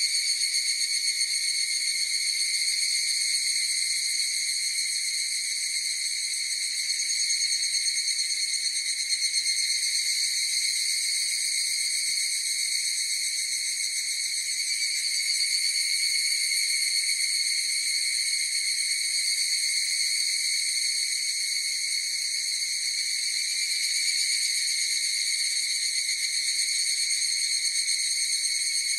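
Higurashi (evening cicadas) calling as a continuous, steady, high-pitched pulsing drone that holds unbroken with only slight swells in loudness.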